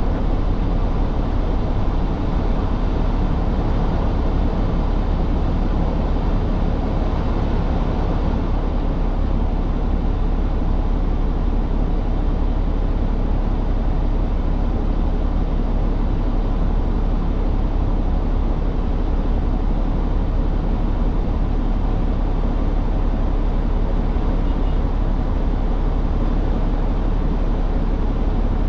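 Semi truck's diesel engine and drive running with a steady low rumble.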